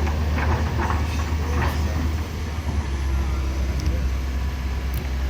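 A heavy vehicle's engine running with a steady low rumble, with faint voices in the background.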